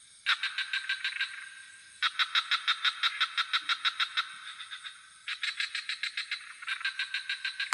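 Frogs calling in rapid pulsed trills, several a second, in three bouts of one to two seconds separated by short pauses, over a steady high chirring of crickets.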